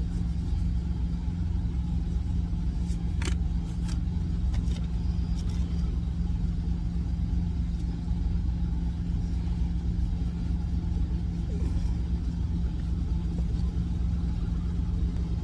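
Steady low rumble of an idling truck engine, with a few faint clicks around three to five seconds in.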